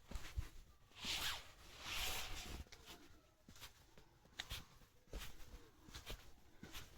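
Faint footsteps and rustling from someone walking through the garden: two short rustles early on, then soft steps a little under a second apart.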